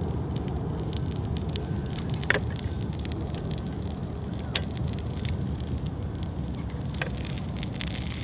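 Wood fire in a campfire stand burning with a steady low rumble, with three sharp pops spread through it.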